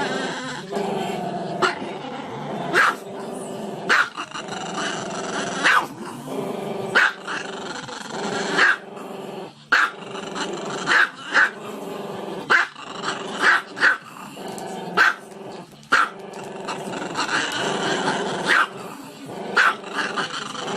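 A dog growling continuously, broken by sharp barks about once a second.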